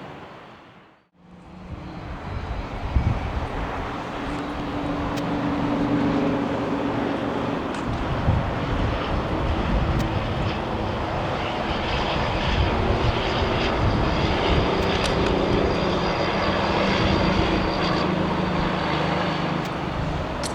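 Airliner jet engines running as the aircraft passes, the noise building after a brief cut about a second in. A high steady whine joins the engine noise about halfway through.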